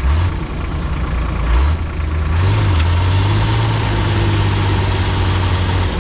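1987 Ford L8000 turbo-diesel truck engine revved in two short blips, then held at high revs from about two seconds in, with a high whistle climbing as the revs rise. The revs fall away near the end.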